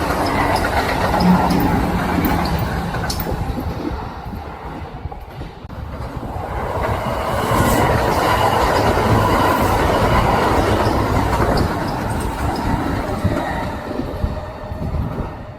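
Kintetsu electric train passing at speed: wheels clattering over rail joints over a loud running rumble. The noise dips about four seconds in, swells again, and fades near the end.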